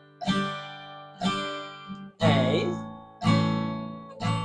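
Acoustic guitar strummed once per beat, about one strum a second, each chord left to ring and fade. It plays a G chord, then changes to an A chord a little over two seconds in.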